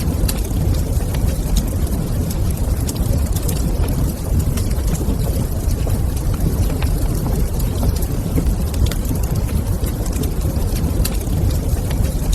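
Wood fire crackling in a fireplace: many small sharp pops and crackles scattered over a steady low rumble.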